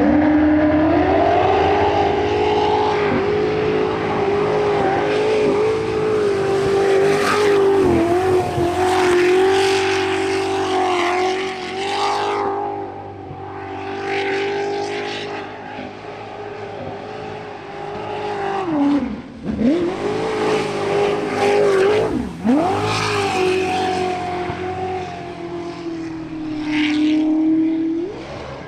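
Sprint boat's jet-boat racing engine at full throttle running the course, a loud steady high engine note that rises at the start. The throttle is lifted sharply twice, a little before and a little after the 20-second mark, and water spray hisses with it.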